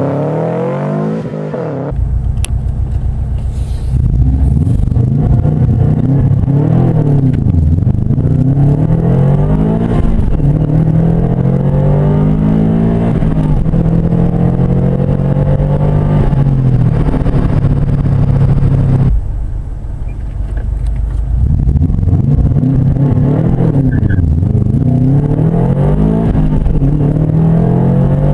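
Turbocharged 2.0-litre Subaru flat-four engine under hard acceleration, its pitch climbing through each gear and dropping back at every shift. It goes quieter for a couple of seconds about two-thirds of the way through, then pulls hard again.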